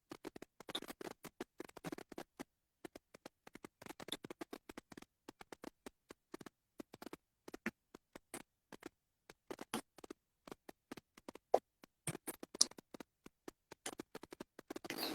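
Soft, irregular clicks and brief rustles, many short taps with silent gaps between them, and a slightly louder rustle near the end.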